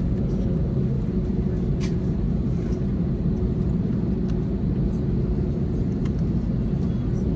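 Steady low rumble heard inside the cabin of an Airbus A321neo airliner, with a faint steady hum and a few light clicks.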